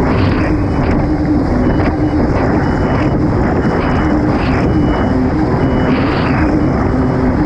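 Kawasaki STX 160 jet ski's four-cylinder engine running hard under way, its pitch shifting slightly, buried in heavy wind on the microphone, with short surges of hiss every second or two as the hull meets the water.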